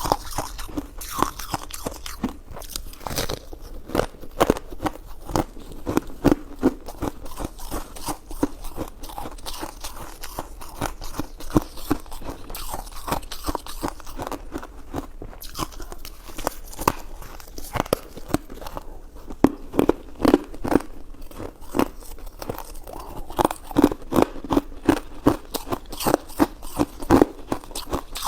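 Close-miked chewing and biting of chewy jelly and mochi desserts: a continuous stream of short clicks and smacks from the mouth, with louder bites in the second half.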